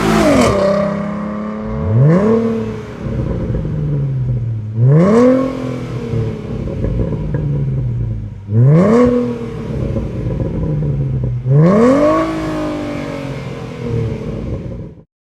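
A 2011-2014 Mustang's 3.7L V6 exhaust, revved four times while the car stands still. Each rev climbs sharply, then falls back over a couple of seconds toward idle. The sound cuts off suddenly near the end.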